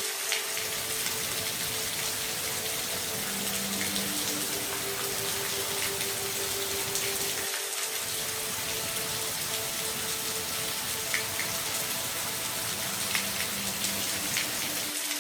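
Steady rain falling: a dense, even hiss with scattered sharper ticks of single drops, over a few faint low steady tones.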